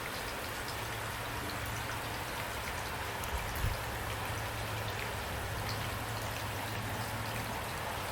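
Steady rain falling, with scattered fine drop ticks over an even hiss and a faint steady low hum beneath; a brief low thump about three and a half seconds in.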